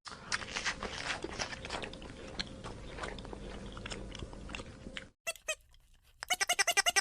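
An animal chewing, with many irregular crunching clicks for about five seconds. About six seconds in, a fast run of short pitched animal calls begins, about eight a second.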